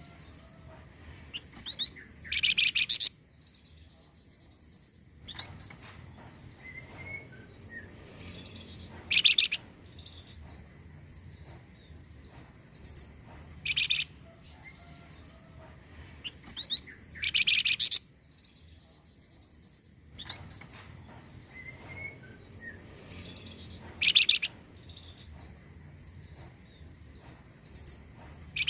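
Recorded song of a flamboyan songbird, played as a lure call: loud bursts of rapid, high chirping notes every few seconds, with softer chirps between them, in a loop that repeats about every 15 seconds.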